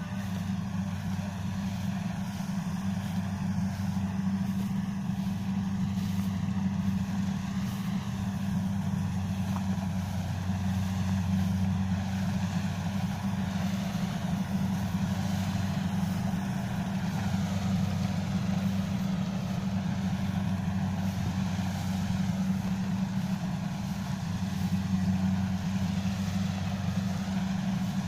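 Kubota DC70 rice combine harvester's diesel engine running steadily with a constant low hum.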